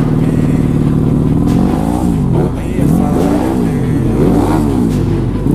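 Motocross dirt-bike engine idling, then revved up and down in quick repeated throttle blips, its pitch rising and falling over and over from about a second and a half in.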